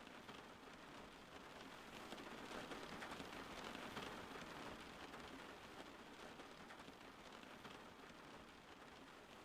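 Steady rain falling, a soft even hiss that swells a little in the middle.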